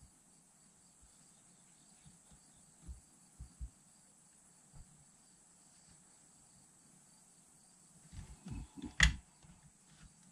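Handling noise: a few soft thumps, then a cluster of knocks ending in one sharp, short click about nine seconds in, over a faint steady high-pitched hum.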